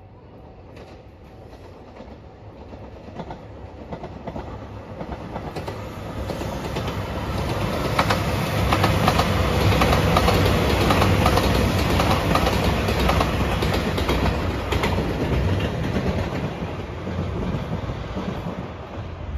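Red Anpanman-liveried train passing at speed, its wheels clattering over the rail joints. It builds gradually, is loudest a little under halfway through, and fades as it moves away.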